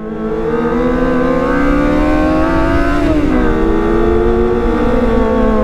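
Kawasaki ZX25R inline-four motorcycle engine running under way. Its pitch climbs slowly and drops back about three seconds in, then climbs and eases off again near the end.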